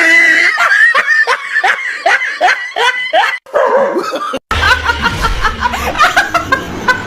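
A person laughing in quick repeated bursts, cut off suddenly about four seconds in, followed by more short laughing bursts over a low rumble.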